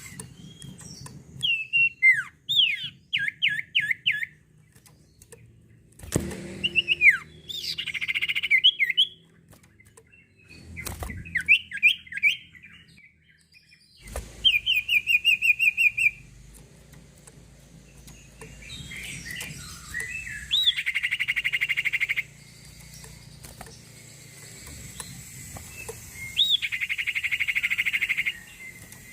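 A sirtu songbird singing in separate phrases with short pauses: quick runs of sharp repeated chirps alternating with fast buzzy trills held for a second or two. Its song is used by Indonesian bird keepers as a lure to coax other birds into singing.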